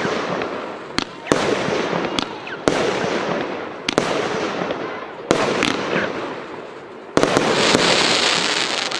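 Fireworks battery firing, about six shots a second or so apart: each a sharp bang followed by fading crackle. The last shot, near the end, is followed by a longer, louder hissing crackle.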